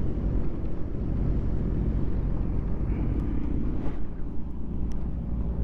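Motorcycle engines running steadily at low revs, a low even drone with a slight rise in pitch about three seconds in.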